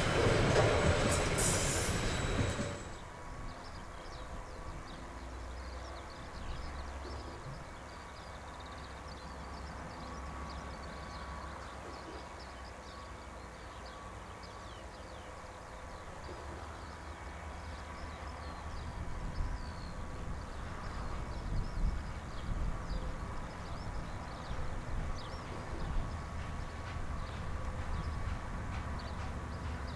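A train passing close by, loud for the first few seconds with a brief high-pitched squeal, then dropping away sharply about three seconds in to a low, steady rumble.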